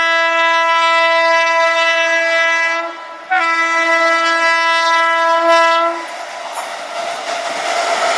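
Indian Railways train horn sounding one steady note, breaking off briefly about three seconds in and sounding again until about six seconds in. Then the running noise of the moving train grows.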